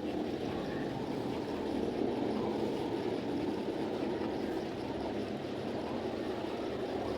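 Steady low mechanical rumble that starts abruptly after a brief silent cut and runs on evenly.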